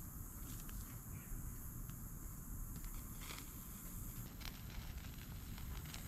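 Outdoor ambience: a steady high hiss and low rumble, with scattered faint clicks and crackles.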